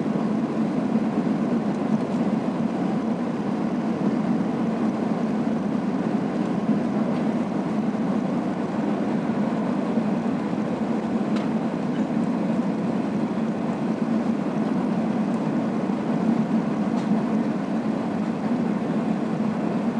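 Cabin noise of an Airbus A380-800 airliner descending toward landing, heard from a passenger seat: engines and rushing air blended into a steady, even low rumble.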